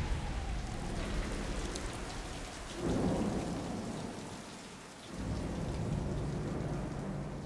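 Steady rain with deep rolling thunder. Two rumbles swell up, about three seconds in and again about five seconds in.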